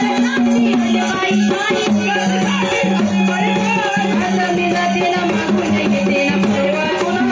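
Marathi gondhal devotional folk music: a steady held drone note under a moving melody, with rattling percussion throughout.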